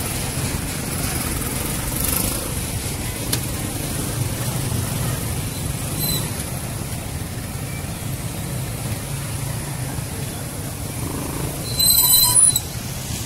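Road traffic passing, a steady low engine rumble, with a short, loud horn beep near the end.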